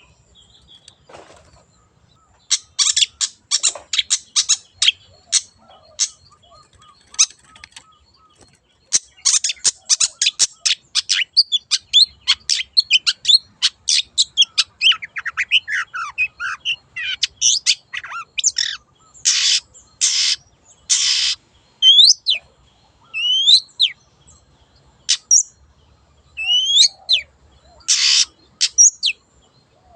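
Long-tailed shrike (cendet) in full song. A few harsh rasping calls come a few seconds in, then a fast run of rapid, varied chattering notes, then three long harsh rasps. It ends with a series of sharp rising whistled upslurs.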